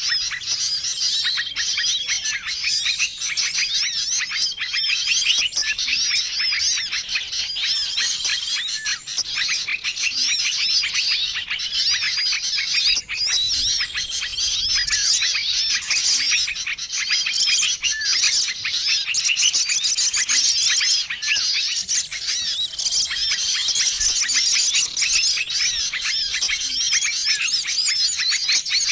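A dense, unbroken chorus of many small songbirds chirping and twittering: a bird-lure recording meant to draw in wild small birds. A short flat whistled note recurs about every two seconds through the chatter.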